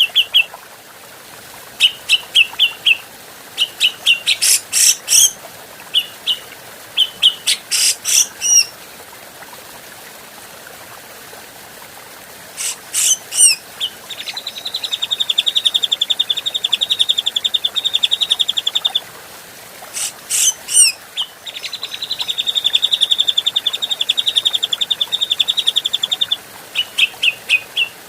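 Grey-cheeked bulbul (cucak jenggot) calling: bursts of quick chattering notes and sharp falling notes, then twice a long, fast, even trill lasting about four to five seconds, with a pause of a few seconds about a third of the way in.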